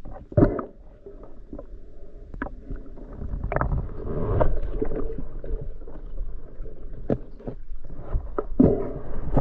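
Water sloshing and splashing in muffled bursts, several sudden splashes over an uneven low wash of water noise.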